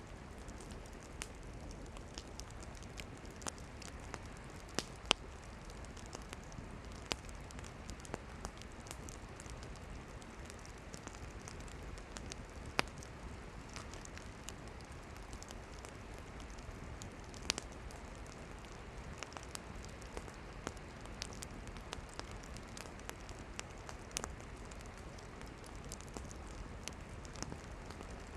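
Campfire of burning firewood crackling, with irregular sharp pops and snaps, a few louder ones, over a steady soft hiss.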